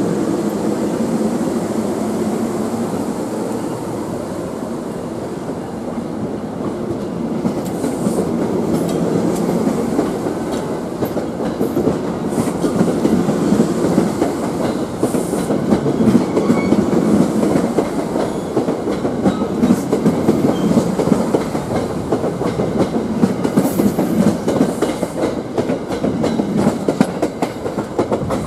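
NJ Transit commuter train's passenger cars rolling past at the platform, wheels clicking over the rail joints in a steady clatter. It grows louder partway through and falls away as the last car goes by at the end.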